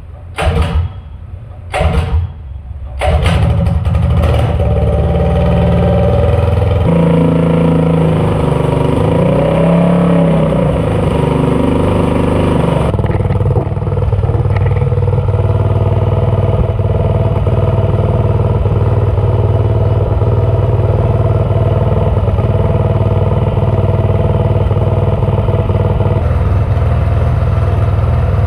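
Predator 212cc single-cylinder engine, built on a Gen 3 non-Hemi block with a Gen 1 head, being started: a few short sputters in the first three seconds, then it catches, revs up and down for several seconds and settles into running steadily.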